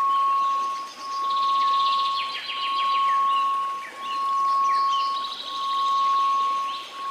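Steady pure tone at 1098 Hz that swells and fades about every second and a half, over a soft hiss of noise, with birds chirping and trilling behind it.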